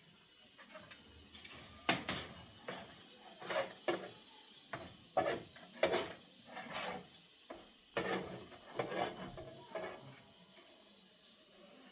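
A string of irregular knocks, clicks and short scrapes as hard household objects are handled and set down, with a brief clatter in places.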